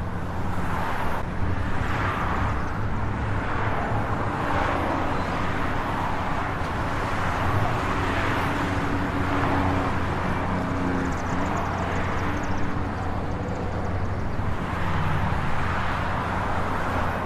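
Vehicle engine running steadily under outdoor road noise, with swells of noise every couple of seconds.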